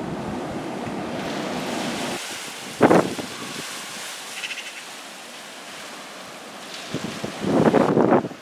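Strong storm wind buffeting the microphone: a steady rush that drops off sharply about two seconds in, then two loud gusts blasting the microphone, one about three seconds in and a longer one near the end.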